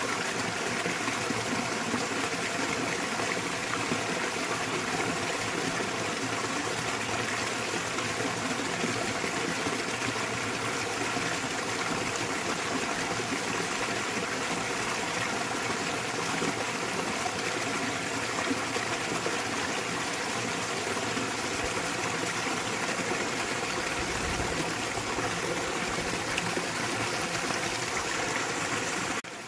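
Small waterfall pouring steadily into a mountain stream, a continuous splashing and rushing of water.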